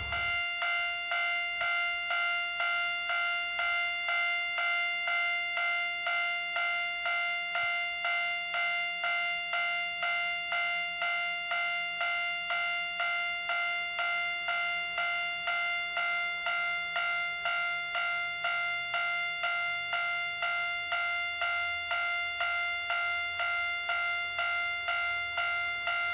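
Railway level crossing warning bell ringing steadily at about two strikes a second. A faint low hum underneath fades out about twenty seconds in.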